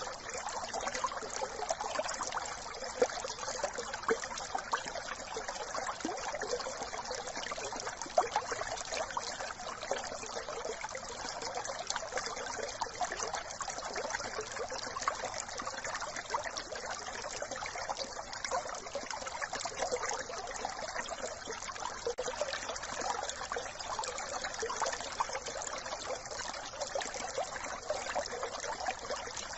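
A brook trickling and babbling steadily, with a few brief sharper splashes.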